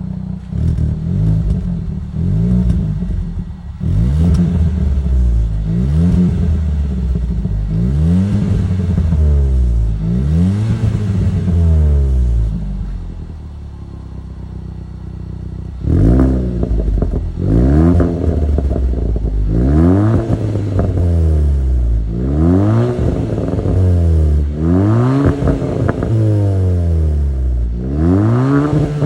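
Kia Seltos 1.6-litre turbo petrol four-cylinder through a custom variable-valve dual exhaust, idling and then free-revved in repeated blips about every two seconds, each rising and falling back. The revs drop to a quieter idle for a few seconds in the middle, then the blips return louder and sharper.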